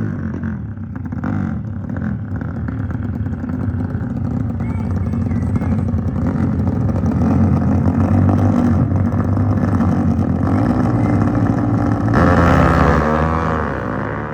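Motorcycle engines running and revving, building up over several seconds, with a louder pass about twelve seconds in whose pitch drops as it goes by.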